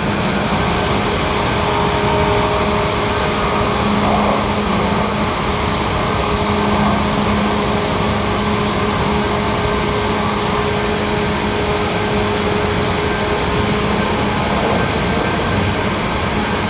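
JR 185 series electric multiple unit running at speed, heard from inside the passenger car: a steady rumble of wheels on rail with a steady low hum underneath.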